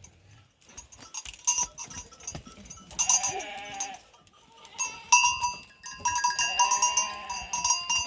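Bells on a flock of sheep clanking and ringing as the animals move, with a sheep bleating about three seconds in and again, longer, about six and a half seconds in.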